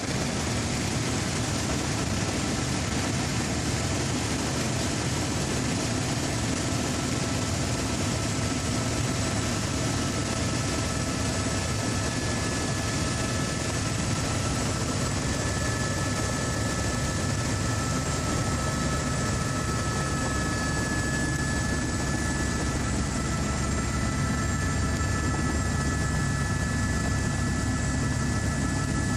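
Helicopter running steadily: a constant, unchanging drone with a few steady high-pitched whines over it.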